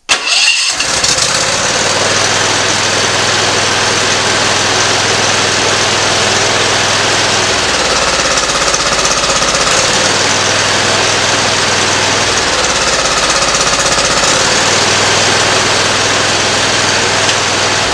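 Briggs & Stratton Professional Series 724cc V-twin engine of a zero-turn mower running, its note changing twice midway through. This is the rough running caused by a bad ignition coil.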